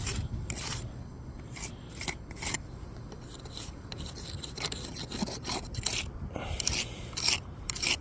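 Steel brick jointer scraping along fresh mortar joints as the mortar is pressed in and slicked smooth: a quick series of short scraping strokes, about two a second.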